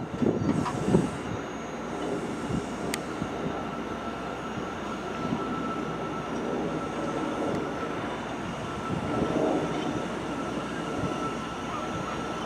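New York City subway train sound: a steady rumble with a constant high-pitched whine, and a few knocks in the first second.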